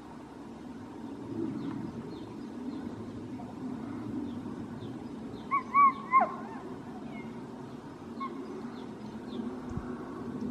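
Birds calling: many short, high, falling chirps throughout, with a louder run of arched whistled notes about halfway through, over a steady low background rumble.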